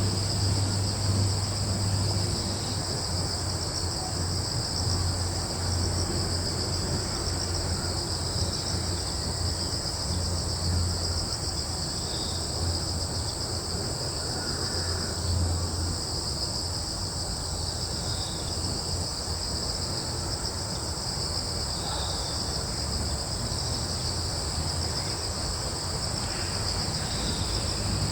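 Steady chorus of crickets and other insects, a continuous high-pitched trilling, over a low, wavering rumble.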